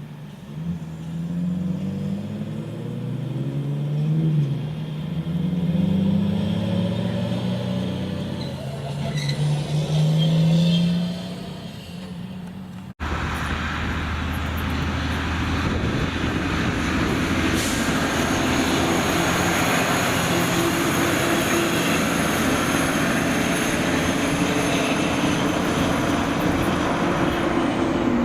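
Heavy diesel trucks on the road. In the first half an engine's note climbs and drops in steps as it works through the gears. After a sudden cut about halfway, there is a steady drone of engine and tyre noise.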